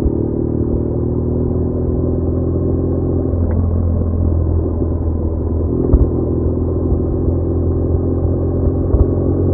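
BMW R1200R's boxer-twin engine running steadily on the move, its note changing about a third of the way in and settling again after about six seconds. Two short knocks are heard, one about six seconds in and one near the end.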